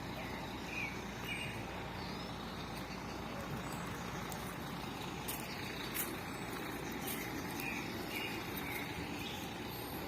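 Steady outdoor background noise with short bird chirps, two near the start and two more near the end.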